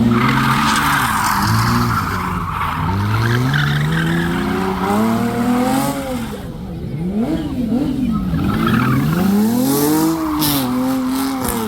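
Car engine revving hard. Its pitch climbs and drops several times, with a few quick blips about seven seconds in.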